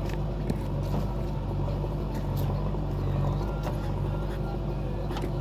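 Diesel engine of a JCB 3DX backhoe loader running steadily at an even speed, with a few faint clicks over it.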